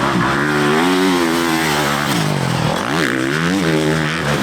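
Motocross bike engine revving, its pitch rising and falling with the throttle, with a sharp drop and quick climb about three seconds in.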